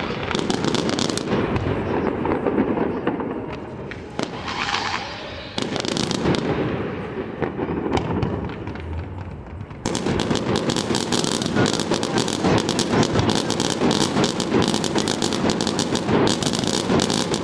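Fireworks display: low booms with scattered crackling bangs. About ten seconds in, the crackling turns dense and rapid, with many bangs in quick succession.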